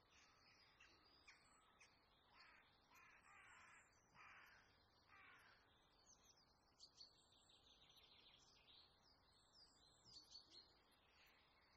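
Very faint birds calling: short high chirps throughout and a few harsher, lower calls in the first half.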